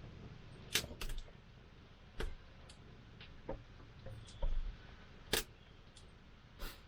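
Wood campfire crackling, with sharp pops at irregular intervals over a faint low hiss.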